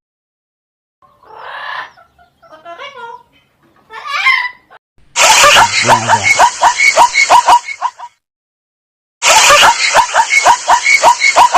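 A parrot giving a few short squawking calls, followed by a loud, rasping animal call that pulses about five times a second, heard twice and much louder than the parrot.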